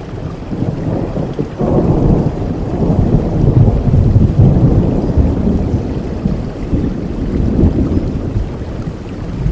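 A long rumble of thunder over steady rain. It breaks in suddenly about a second and a half in, is loudest in the middle, swells once more and then dies back toward the end.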